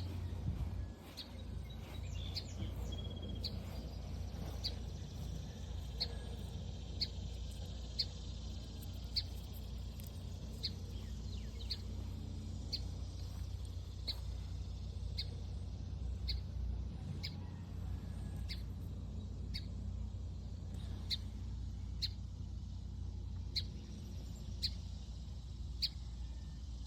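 A small bird giving short, high single chirps about once a second, over a steady low rumble.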